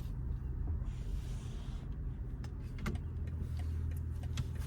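Steady low rumble of road and tyre noise inside a moving car's cabin, with a brief hiss about a second in.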